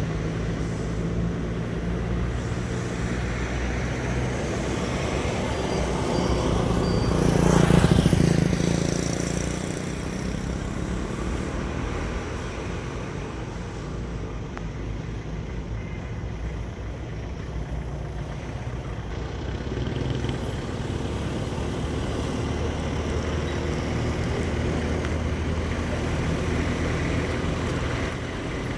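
Trucks and road traffic with engines running steadily. One vehicle passes close about eight seconds in, getting louder and then fading. There is a short, sharp sound near the end.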